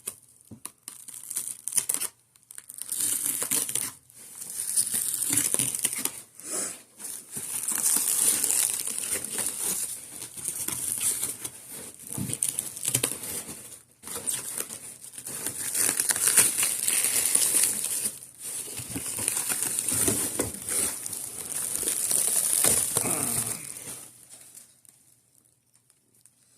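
Packaging crinkling and rustling in long stretches as it is handled and pulled apart, with short pauses, dying away near the end.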